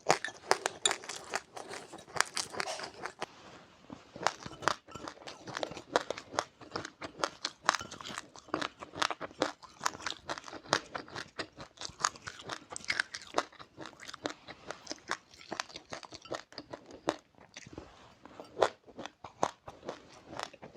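Person chewing crunchy seeds close to the microphone: many sharp, irregular crunches, several a second, with wet chewing between them.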